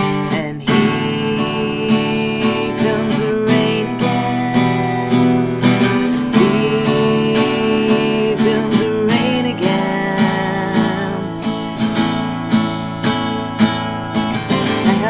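Acoustic guitar strummed steadily, chords ringing between repeated strokes: the instrumental accompaniment of a self-written song.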